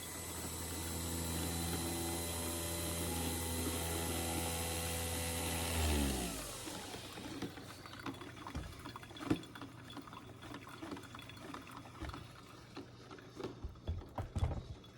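Nespresso machine running as it brews, a steady mechanical hum with a hiss, which winds down in pitch and stops about six seconds in as the brew finishes. After that come a few small clicks and knocks.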